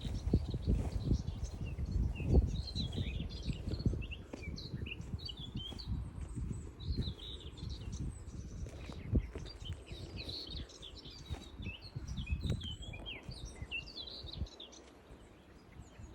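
Several small birds chirping and singing, with many short, quick notes throughout, over irregular low thuds and rumble that ease off near the end.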